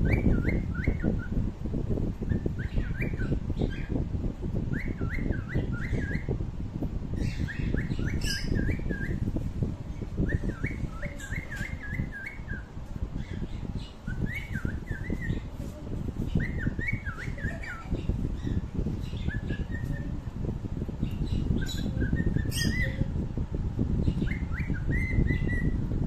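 A small bird singing a short, quick warbling phrase over and over, one every second or two, over a steady low rumbling noise.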